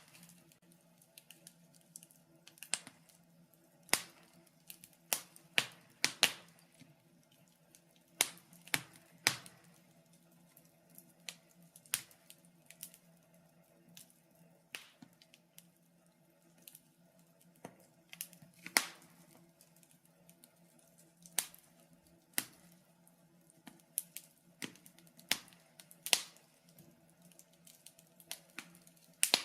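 Wood fire crackling in a fireplace: irregular sharp pops and snaps, one or two a second and varying in loudness, over a faint steady low hum.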